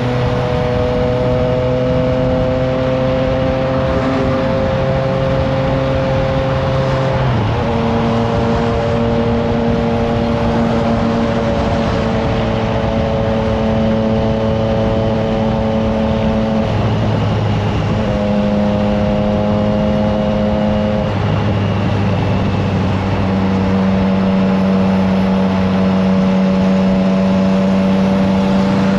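Triumph Trident 660's inline three-cylinder engine, breathing through an aftermarket FireTong exhaust, pulling under way with a steady note that steps in pitch several times through gear changes, over the rush of wind on the microphone.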